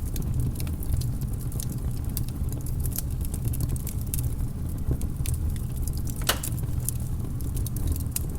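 Wood fire crackling in a fireplace: irregular sharp pops and snaps over a low steady rumble, with one louder pop about six seconds in.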